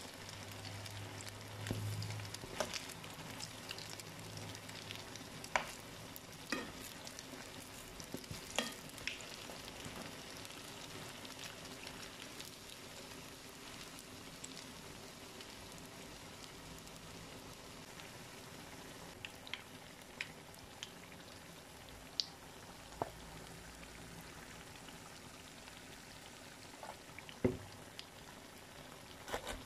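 Yeast dough balls frying in hot oil in a pan: a steady sizzle with scattered sharp pops and crackles, the loudest couple near the end.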